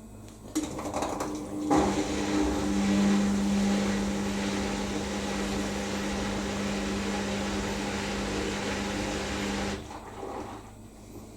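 Hoover DynamicNEXT washing machine at the start of its wool cycle: water rushing through the machine with a steady hum, starting a couple of seconds in after a few light knocks, running for about eight seconds, then cutting off sharply.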